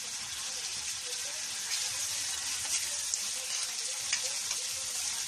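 Shrimp and onions sizzling steadily in a wok with soy sauce, with scattered small pops.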